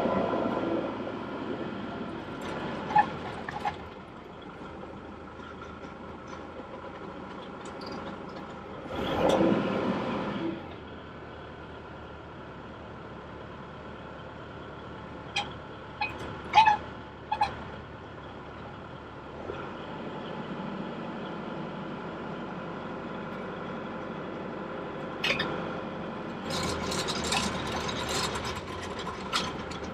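Kubota tractor's diesel engine running steadily, with a few sharp clanks about halfway through and louder stretches of mechanical noise about nine seconds in and again near the end.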